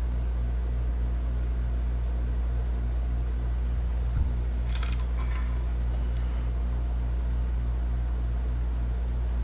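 Steady low machine hum with a fast regular pulse. A soft knock comes about four seconds in, then a few light metallic clinks just after, as broken engine parts are handled.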